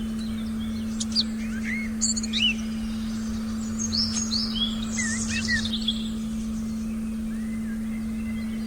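Forest birds chirping and whistling in short bursts, busiest in the first two-thirds and thinning out after about six seconds, over a steady low sustained tone.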